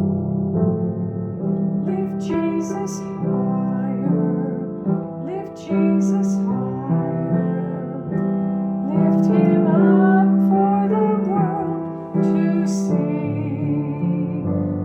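Electric piano or keyboard playing sustained chords of a gospel worship song, with a woman's singing voice over it.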